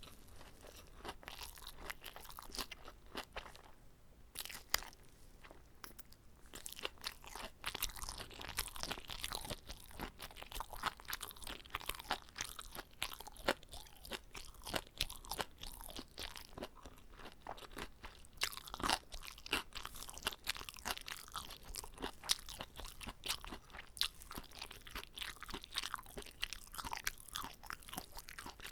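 Close-miked chewing of a whole gimbap roll, with many quick, irregular crunchy clicks from mouthfuls of seaweed, rice and vegetables.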